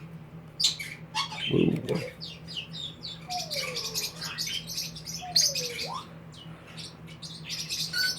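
Small cage birds chirping in many quick, high, overlapping calls, with two lower falling whistles in the middle.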